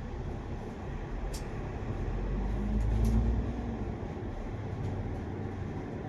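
Bus engine and drivetrain running, heard from inside the moving bus's cabin as a steady low rumble. It swells louder about two seconds in, with a rising drone, then settles back. A few faint clicks and rattles sound along the way.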